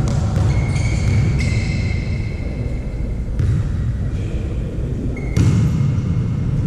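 Volleyball play in a sports hall: several sharp ball impacts, the loudest about five seconds in, with high squeaking tones over a steady low rumble of the hall.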